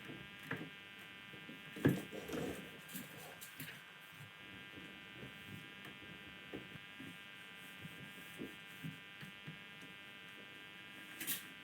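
Small electric motor running with a steady whine, with scattered light knocks and clicks over it. The loudest knock comes about two seconds in.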